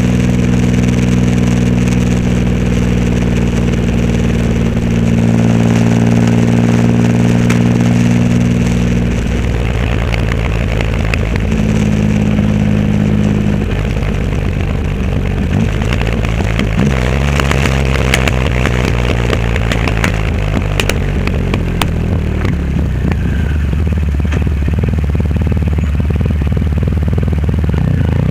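Triumph Rocket 3 Roadster's inline three-cylinder engine running through a custom exhaust while riding. It holds steady revs for the first nine seconds or so, then the note shifts up and down with the throttle, and it rises as the bike accelerates at the very end.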